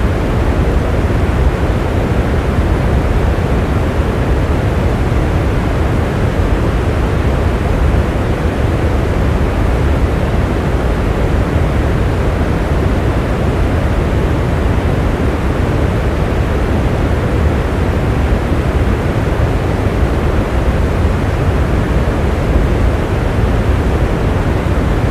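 Rain falling steadily: an even, unbroken wash of noise, deepest and strongest at the low end.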